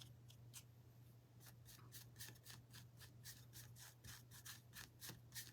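Faint, quick strokes of a paintbrush on a wooden cutout, about two or three a second, over a low steady hum.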